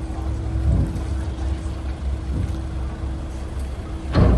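An engine running steadily: a low rumble with a steady hum over it. A brief loud thump comes near the end.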